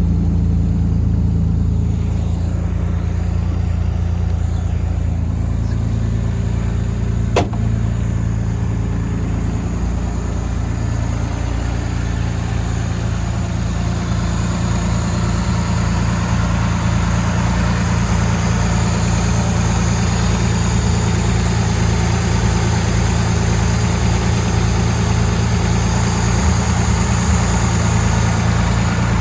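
A 1960 Austin-Healey 3000 BN7's straight-six engine idling steadily on choke, still cold just after starting. A single sharp click comes about seven seconds in.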